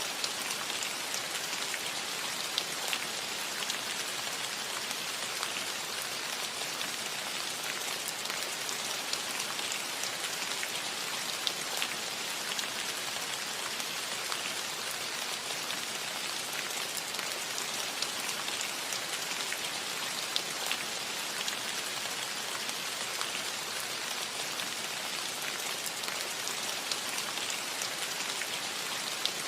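Steady rain falling on a roof, an even hiss with scattered individual drop taps.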